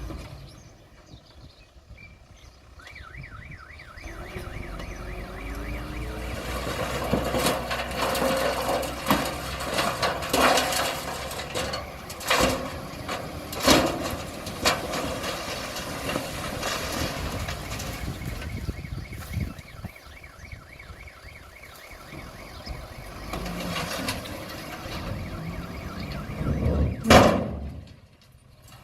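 Komatsu D20P bulldozer working: its diesel engine revs up and settles back, with sharp metallic knocks and clanks from the tracks and blade, and a loud knock near the end.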